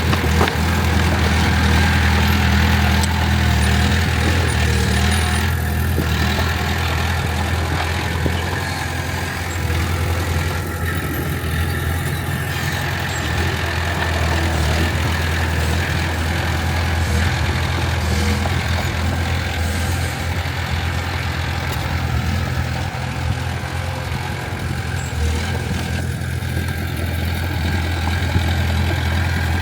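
Heavy construction machinery's diesel engine running steadily with a low, even hum.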